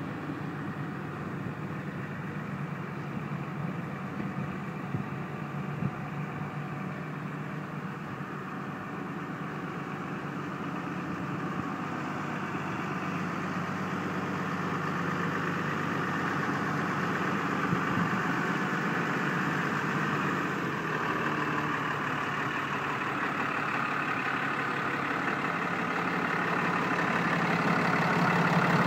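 6.7L Cummins inline-six diesel engine of a 2011 Dodge 5500HD truck idling steadily, growing gradually louder over the second half.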